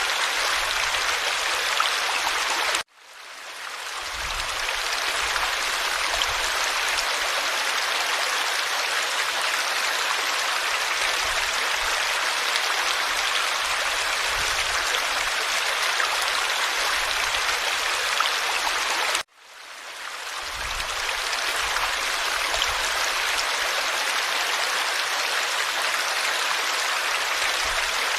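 Forest stream flowing, a steady rush of babbling water. Twice the sound cuts out abruptly and fades back in over about two seconds.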